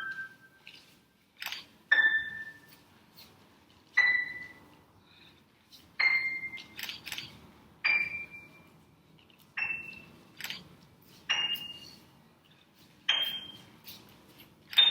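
A series of sharp strikes about every two seconds, each ringing briefly with a clear high tone. Each tone is a little higher than the one before, like a slow rising scale, with small clicks in between.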